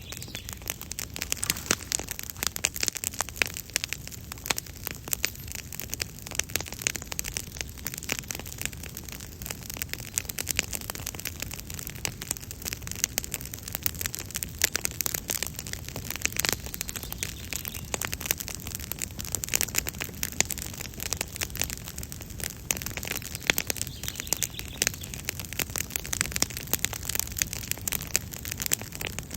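Wood campfire crackling and popping, a dense, irregular run of sharp snaps that goes on without letup.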